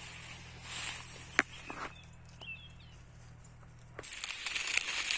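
Dry grass, leaves and twigs rustling and crackling as the pile for a fire is handled, with one sharp snap a little over a second in and louder rustling near the end. A few faint bird chirps come in midway.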